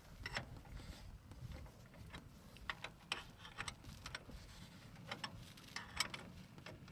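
Scattered light clicks and taps at irregular intervals, the sound of parts or tools being handled, over a faint low rumble.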